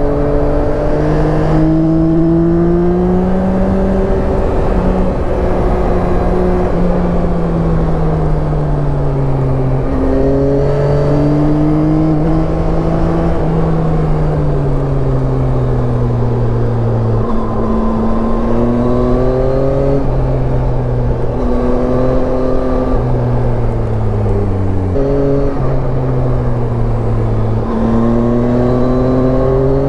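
Yamaha Tracer 9's three-cylinder engine pulling and easing off as the motorcycle is ridden. The engine note climbs and sinks over several seconds, with a few abrupt jumps in pitch as gears change.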